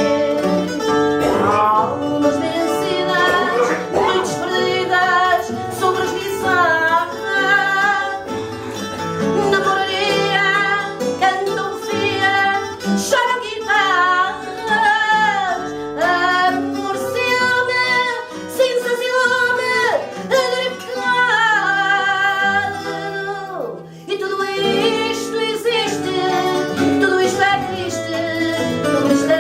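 Fado: a woman singing long, wavering phrases with vibrato over a Portuguese guitar (guitarra portuguesa) and a viola de fado plucking the accompaniment. The music drops away briefly about three-quarters of the way through, then picks up again.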